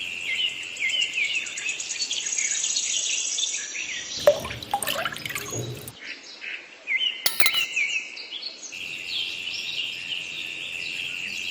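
Small birds chirping in quick, repeated short notes over a steady high-pitched buzz. The sound breaks off abruptly a couple of times.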